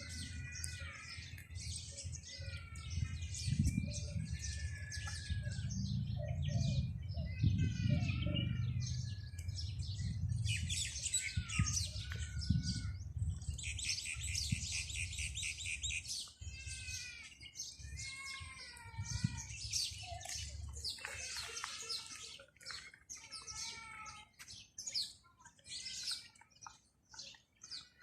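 Many small birds chirping and twittering together, short calls and falling chirps overlapping, with a dense buzzy trill about halfway through. A low rumble runs underneath for most of the time, then stops.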